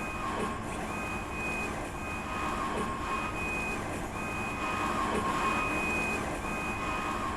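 Stratasys J750 PolyJet 3D printer running: a steady mechanical hum with a high whine that repeatedly starts and stops, as the print head carriage makes its passes.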